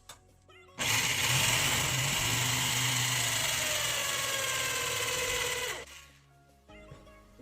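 Electric power tool running on wood for about five seconds, its motor pitch sagging slightly under load, then stopping abruptly.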